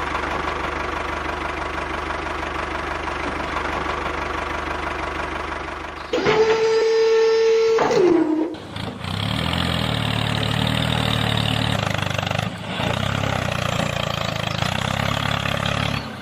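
An engine runs steadily. About six seconds in, a loud, steady, horn-like tone sounds for about two seconds. After a short break, a deeper engine sound runs on to the end.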